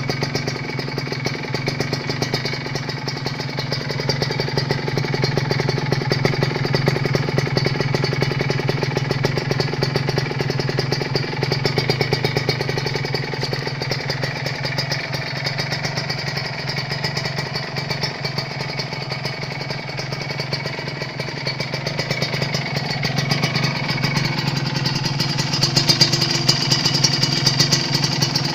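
Kawasaki Ninja 150 RR two-stroke single-cylinder engine idling steadily through an aftermarket DBS Thailand exhaust. It gets a little louder near the end.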